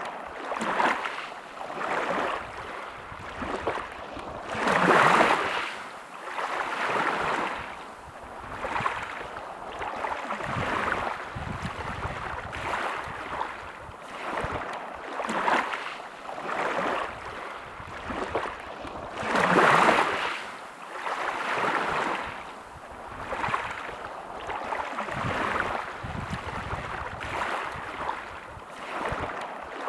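Small sea waves washing on the shore, a hiss of water that swells and fades every second or two, with two bigger waves breaking about five seconds in and again about twenty seconds in.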